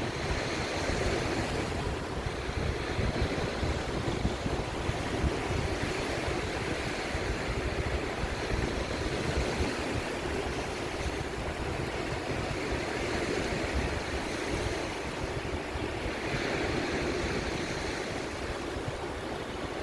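Sea waves washing continuously, with wind buffeting the microphone; the surf swells up twice, a couple of seconds in and again near the end.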